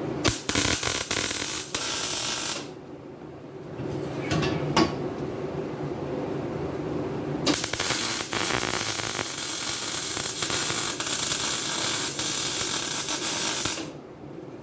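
Welding arc crackling and sputtering while seams on a steel exhaust pipe are welded shut against air leaks: a run of about two seconds, a pause with a few clicks, then a longer run of about six seconds.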